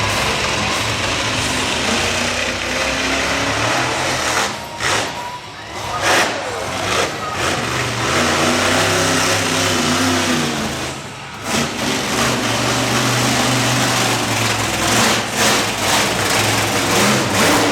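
Monster truck engine revving hard during a run. The throttle is lifted briefly about five seconds in and again about eleven seconds in, and the pitch rises and falls as the driver works the throttle.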